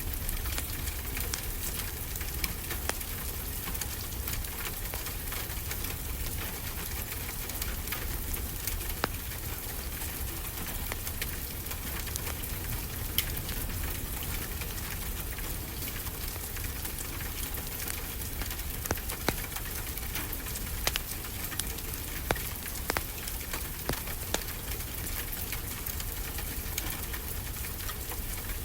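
Wood fire crackling, with scattered sharp pops over a steady hiss and a low rumble of ocean surf.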